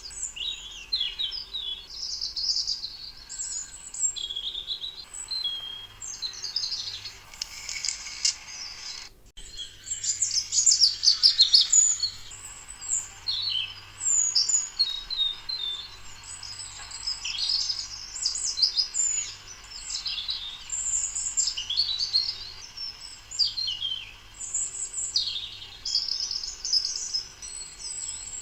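Many small birds chirping and singing at once, a dense run of overlapping high chirps and trills, broken by a short gap about nine seconds in.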